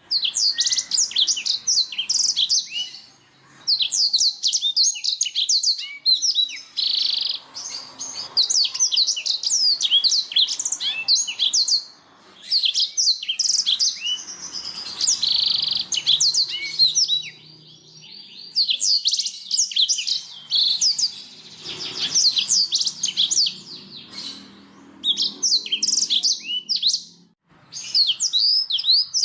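Domestic canary singing a long song of rapid, high trills and chirps in phrases, with brief pauses between them.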